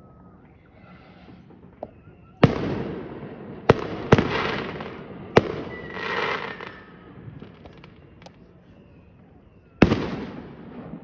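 Fireworks going off: five sharp bangs, three close together a few seconds in, one more soon after and a last near the end, each trailing off in a fading rush of noise.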